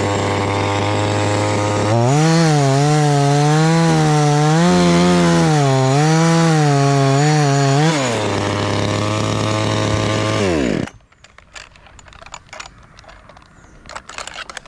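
Chainsaw idling, then revved up about two seconds in and held at high speed for about six seconds, its pitch wavering as it cuts wood. It drops back to idle and shuts off about eleven seconds in, its note falling away, leaving faint knocks and rustles.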